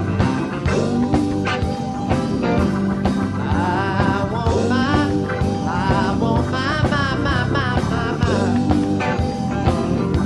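Live band playing a bluesy funk-rock groove over a steady beat, with a lead line of bending notes coming in about three and a half seconds in.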